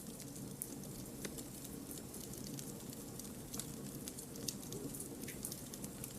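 Campfire of burning firewood crackling, with irregular sharp pops and snaps over a steady low rush of flame.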